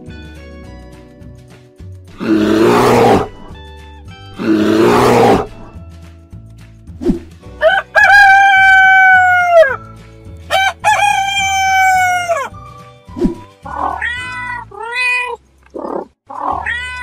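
A rooster crowing twice, each crow a long call that falls in pitch at the end, over light background music. Two harsh noisy bursts come before the crows, about two and four seconds in, and a run of short animal calls follows near the end.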